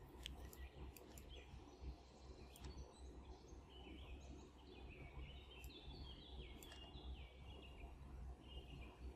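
Faint room tone with birds chirping in the distance, in quick repeated high notes that are busiest in the middle, and a few faint clicks.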